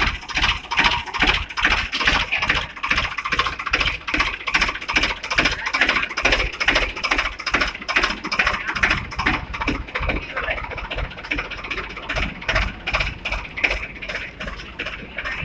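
Tractor-powered concrete mixer running, with a rhythmic clatter of about three strokes a second.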